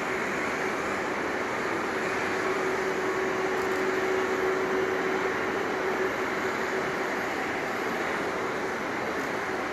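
Jet airliner engines running with a steady roar and a steady low hum, as from a plane taxiing or idling near the runway.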